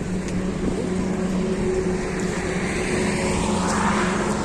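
Car engine running steadily with road noise, a rising rush of noise swelling near the end.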